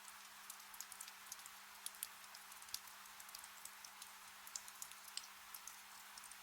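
Gentle rain falling, a soft steady hiss with scattered individual drops ticking close by. A faint steady low hum lies underneath.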